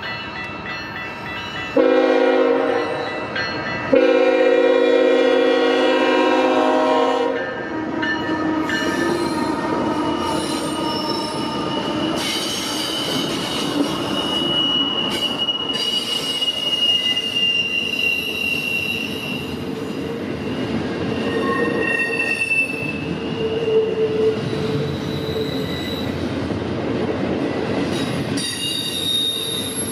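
Freight train locomotive horn sounding a short blast and then a long one, followed by the train rolling past with its wheels squealing in drawn-out high tones over the steady rumble of the cars.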